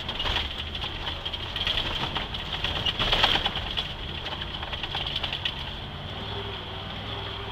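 A 1982 GMC pickup's engine running steadily as the truck drives over rough ground, with frequent rattles and knocks from the truck jolting over bumps and a constant high whine.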